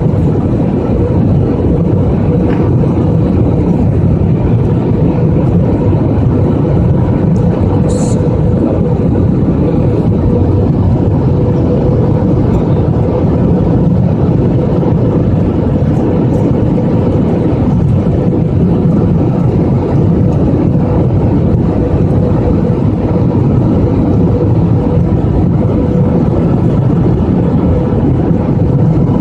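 Airliner cabin noise during the approach to landing: a steady rush of jet engines and airflow heard from inside the cabin, with a constant hum held at one pitch.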